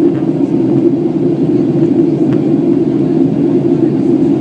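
Steady low drone of a Boeing 737-800 in flight: engine and airflow noise as one even sound.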